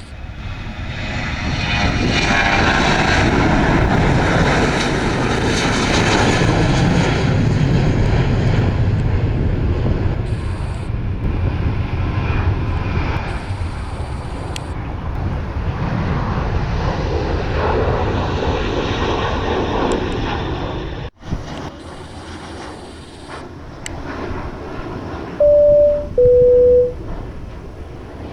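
An airliner's jet engines pass close by as a loud, steady rush that builds within a couple of seconds and slowly eases off. The sound cuts off abruptly about three quarters of the way through. Near the end come two short electronic beeps, the second lower in pitch.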